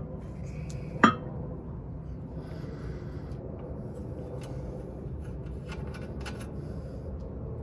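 Sharp metallic clink of hand tools or steel parts being handled about a second in, followed by a few faint ticks and light rubbing, over a steady low background hum.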